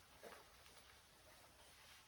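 Near silence: faint room tone with one brief soft sound about a quarter second in.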